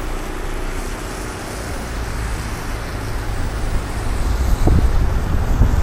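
City street traffic noise, a steady rumble of passing cars, with wind buffeting the microphone and growing louder near the end.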